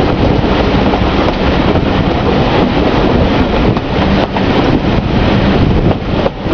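Strong wind buffeting the microphone held out of a moving train's carriage window, over the steady running noise of the coaches on the track, with a few short knocks.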